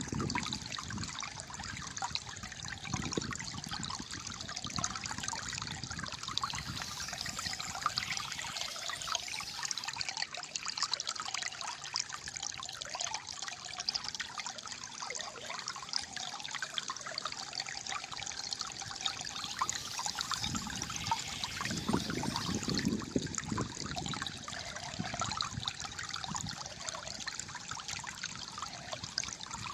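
Shallow flowing water trickling and gurgling steadily, with a deeper gurgle swelling up about three-quarters of the way through.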